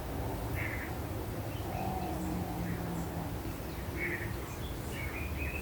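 Short bird chirps, a handful of times, over a steady low rumble.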